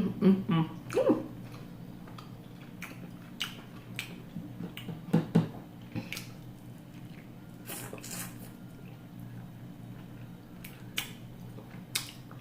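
Close-miked chewing and eating of chicken: scattered wet mouth clicks and smacks, with a few brief mouth sounds about a second in, over a steady low hum.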